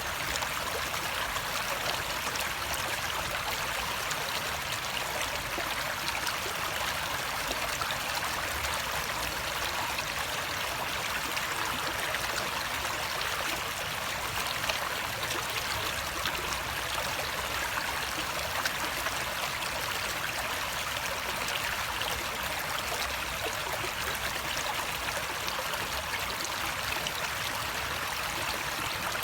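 Running water flowing steadily, an even rushing and trickling with no break.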